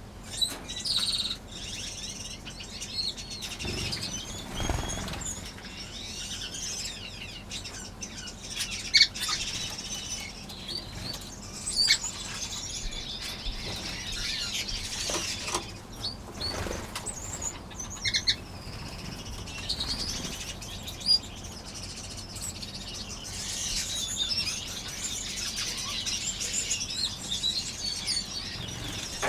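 Many small aviary finches chirping and twittering together, with wings fluttering and a few sharp taps now and then.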